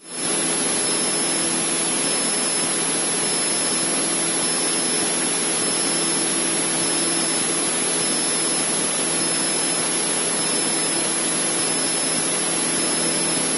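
Steady cabin noise of a Cessna 152 in level cruise: the four-cylinder Lycoming engine and propeller droning evenly, with no change in power.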